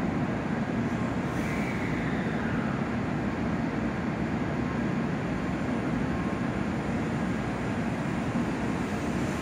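N700-series Shinkansen train moving slowly through the station: a steady, even rumble of running gear and traction equipment, with a brief faint falling whine about a second and a half in.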